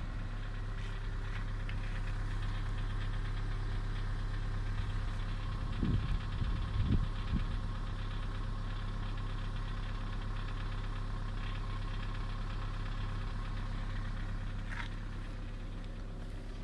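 Second-generation Kia Sorento engine idling steadily with a knock in the engine, with a few louder low thumps about six to seven seconds in.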